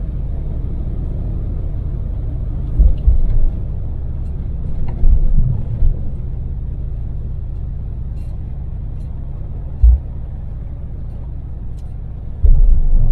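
Daewoo Damas LPG minivan cruising on an expressway: a steady low engine and road rumble. Several short, much louder low thumps break in, around three seconds in, five to six seconds in, near ten seconds and again near the end.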